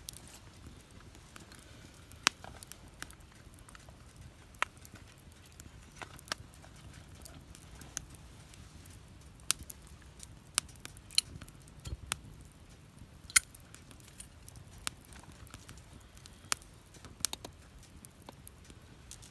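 Wood fire burning in a fire pit, crackling with sharp, irregular pops every second or so over a low, steady background, one pop near the middle louder than the rest.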